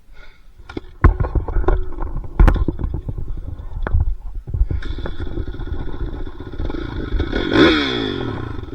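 Motocross dirt bike engine running and revving. A quick run of knocks and clatter starts about a second in, then the engine note settles and swings up and down in pitch near the end.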